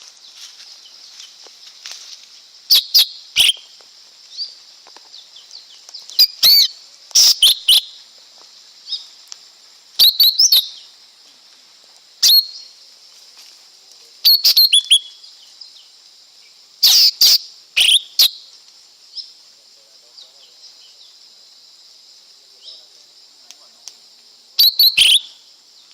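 Lesser green leafbird calling: short, sharp, high chirps and brief quick phrases in bursts every few seconds, over a steady faint high hiss.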